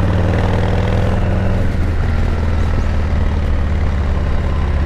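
Harley-Davidson Softail Deluxe's Milwaukee-Eight V-twin running steadily at cruising speed while riding, heard from on the bike. The engine is new and still being run in.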